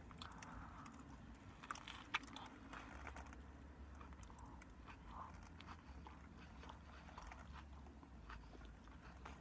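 Faint chewing of a big mouthful of sub sandwich, with scattered small mouth clicks.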